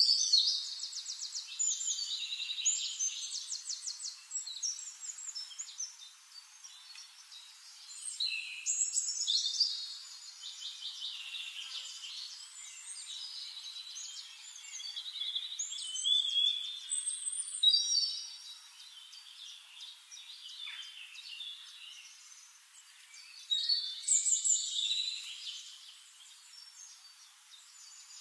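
Bird singing in bursts of rapid high trills and chirps, about every six to eight seconds, with quieter chirping in between.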